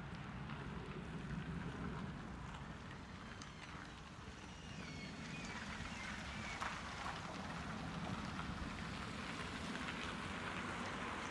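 Outdoor city ambience: a steady low rumble with a wash of background noise, and a few faint high chirps about a third of the way in.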